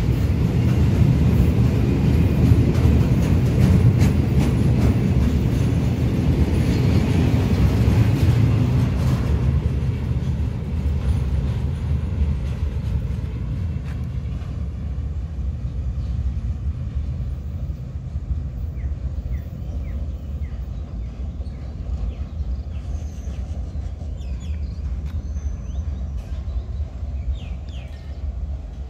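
Freight train of container wagons rolling past on the rails, a steady low rumble that fades over the second half as the last wagons pull away.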